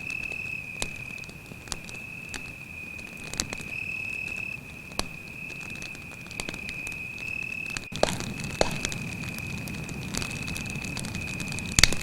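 Wood campfire crackling with scattered sharp pops over a cricket's steady high-pitched trill. The fire fills out with a low hiss about two-thirds of the way in, and the loudest pop comes near the end.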